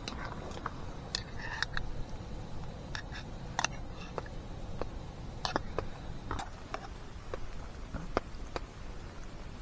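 A utensil stirring a thick rice and ground beef mixture in a camp pot: irregular clinks and scrapes of metal against the pot, over a low steady background noise.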